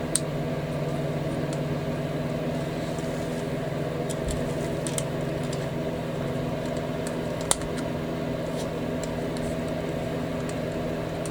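A steady electrical hum underneath a few sharp, light clicks of small plastic model parts being handled, including one near the start, a couple about five seconds in and one about seven and a half seconds in.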